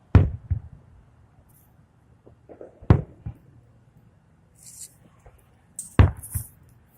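Fireworks bursting overhead: loud sharp booms about every three seconds, some followed closely by a second smaller bang, with brief high crackling hiss just before the last booms.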